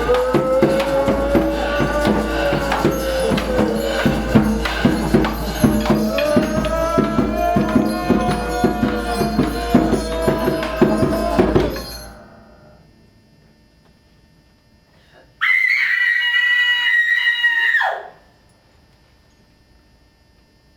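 Live group soundscape performance: dense, rapid percussion strokes under sliding, wavering held tones, which stops suddenly about twelve seconds in. After a pause, one high held tone sounds for about two and a half seconds and drops in pitch as it ends.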